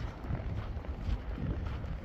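Wind buffeting the microphone outdoors: an uneven low rumble with a faint hiss above it and a few scattered faint ticks.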